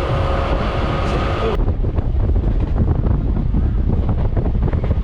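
Wind buffeting the microphone over the low rumble of a moving train. About a second and a half in, the sound changes abruptly: a brighter hiss with a faint steady hum gives way to the heavy wind rumble.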